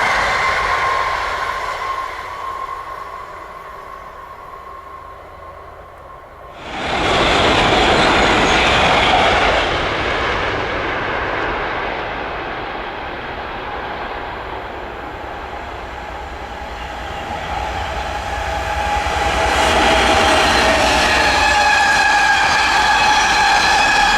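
Trains passing on the line: one fades away, then another rushes past loudly with a sudden onset about six seconds in and slowly dies away. Near the end a further train approaches, its sound growing, with a steady hum of several pitches.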